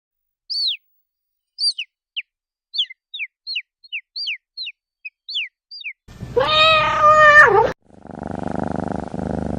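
A string of about a dozen quick, high bird chirps, each sliding down in pitch. Then a cat gives one long meow that drops in pitch at the end. About two seconds later a cat starts purring steadily.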